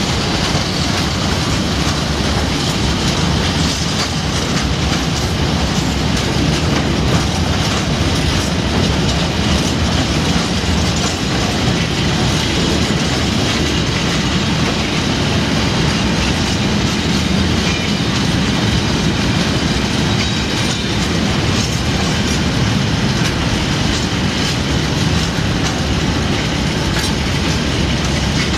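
Bogie box wagons of a freight train rolling past steadily: a continuous rumble and rush of steel wheels on rail, with clickety-clack as the bogies cross the rail joints.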